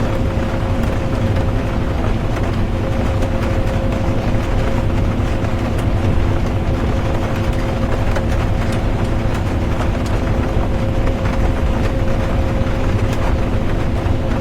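Steady interior drone of a bus driving: a low engine and road rumble with a constant hum, and scattered faint ticks of light rain over it.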